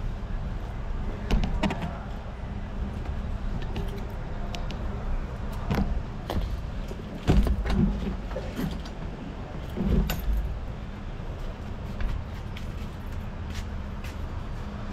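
Motorbike riding over an uneven road, heard from an on-board action camera: a steady low rumble with frequent rattling clicks and knocks, a few sharper jolts about six, seven and ten seconds in.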